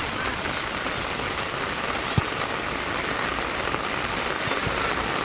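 Heavy rain pouring steadily, with a few sharp drop ticks, one louder about two seconds in.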